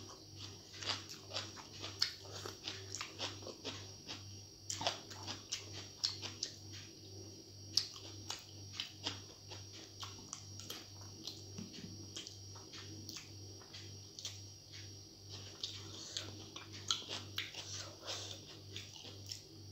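Close-miked mouth sounds of eating by hand: wet chewing, lip smacks and finger-sucking clicks, several a second.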